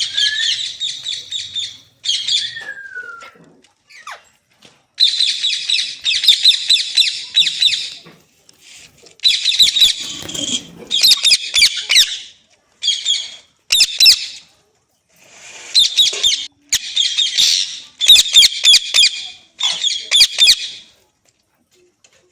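Pet Indian ringneck parrot screeching in a run of harsh, loud calls, each lasting one to three seconds with short breaks between, falling quiet near the end.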